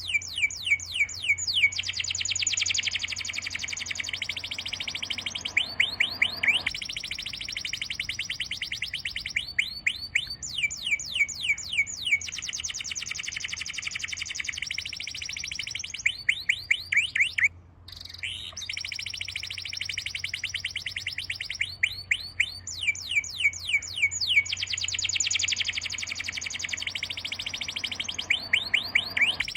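A songbird singing long, fast trills of rapid falling whistled notes, the phrases coming again every few seconds, over a faint steady low hum.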